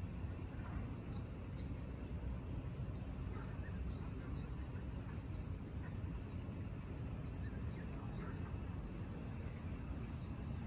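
Small birds chirping: short, high falling notes repeated every half second or so, with scattered lower chirps, over a steady low rumble.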